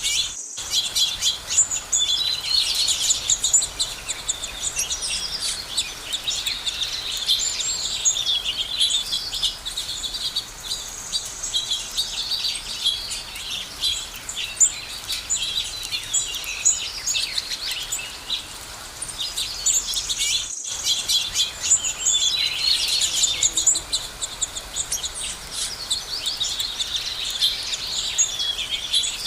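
Many small birds chirping and trilling together in a steady, busy chorus, with no one call standing out. The sound cuts out briefly twice, near the start and about two-thirds of the way through.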